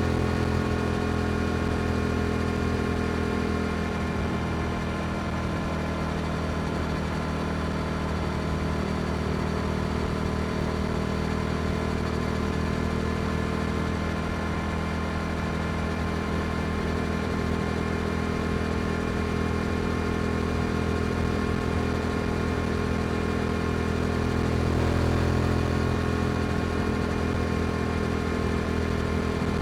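Yamaha R7 parallel-twin engine with an Akrapovic exhaust, running at steady revs while riding, swelling slightly in loudness near the end.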